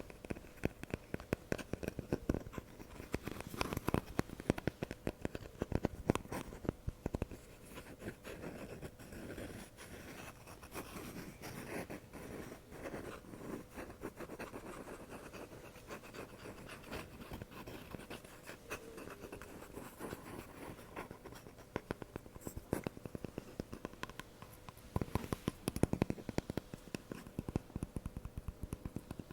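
Fast, close-up ASMR scratching and tapping on a microphone, with dense quick strokes that are busier at the start and again near the end.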